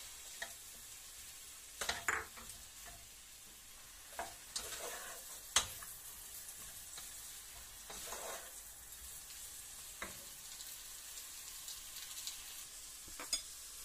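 Sliced sausage and crab meat frying in garlic butter in a wok, a steady sizzle, with a wooden spatula scraping and knocking against the pan every couple of seconds; the sharpest knock comes about five and a half seconds in.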